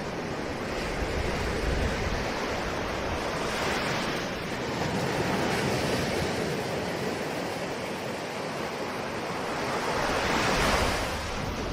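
Ocean surf: waves breaking and washing on a shore in a continuous rushing hiss that swells and eases, with the loudest wave near the end.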